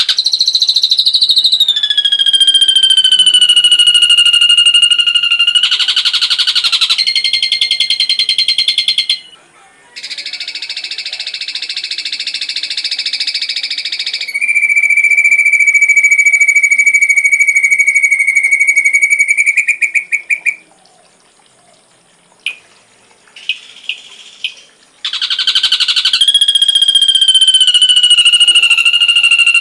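Ashy drongo song: long, pure, piercing whistles held for several seconds and slowly falling in pitch, broken by rapid buzzy trills, with a brief pause holding a few sharp single notes about two-thirds through.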